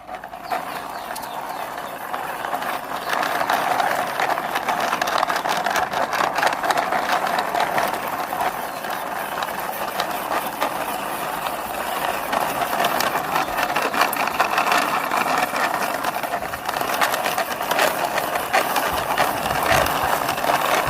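Red plastic toy city cleaning truck pushed along by hand, giving a continuous rattling, clicking whir from its wheels and mechanism.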